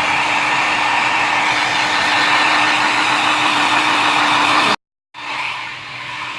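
Hair dryer running steadily with a whirring blow. It cuts out abruptly near the end, followed by a quieter steady hiss.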